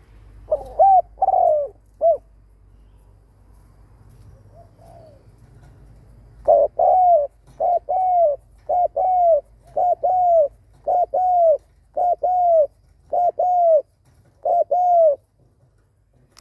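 Spotted dove cooing. A short burst of coos opens the stretch, then after a pause comes a steady series of double coos, about one pair a second, eight or nine times. This is the rapid, repeated "gù" coo of a male decoy dove, the call used to provoke wild males.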